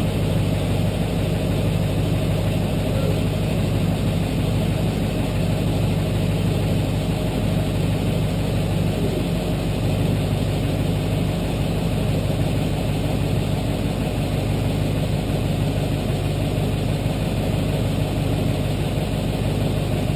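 Truck engine idling steadily at full operating temperature, fitted with aftermarket 250/200 fuel injectors.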